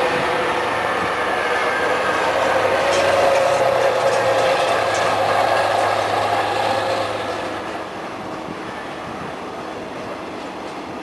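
ALEX passenger train rolling slowly past on the station track: a steady rumble with a low hum and higher whining tones. It eases off after about seven and a half seconds.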